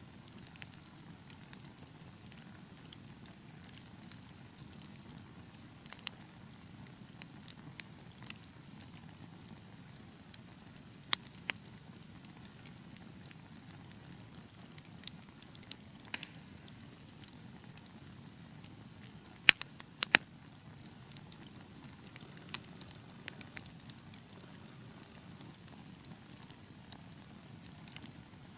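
Fireplace fire crackling: a steady low rush from the flames with scattered sharp pops, the loudest two close together about twenty seconds in.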